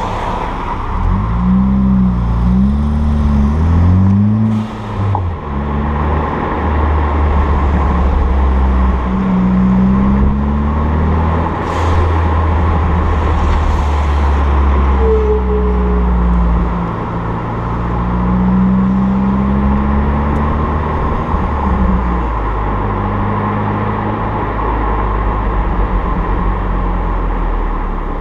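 Car engine and 3-inch Rebel Devil Customs aftermarket exhaust under way, with a deep drone. The pitch rises and drops several times in the first few seconds as it accelerates, then settles to a mostly steady cruise with a couple of slow, longer climbs.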